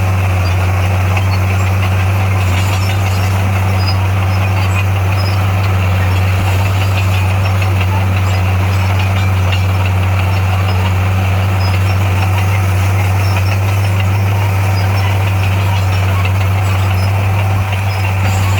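Heavy diesel engine of earthmoving equipment running at a steady, unchanging pitch, with a slight dip in level near the end.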